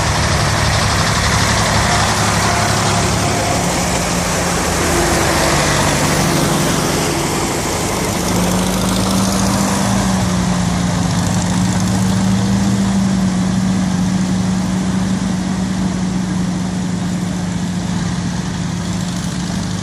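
Tractor engine running steadily, its note shifting to a steady low hum about eight seconds in.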